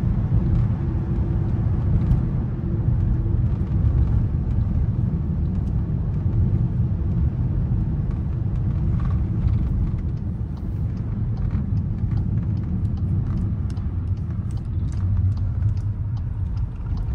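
Steady low rumble of a 2024 Volkswagen Atlas driving on a snow-covered road, heard from inside the cabin, with faint scattered ticks in the second half.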